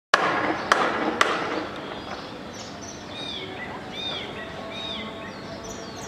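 A bird giving short, high, arching calls about one a second, each sounding like a cat's mew. The opening second and a half is louder: a rush of noise with three sharp clicks.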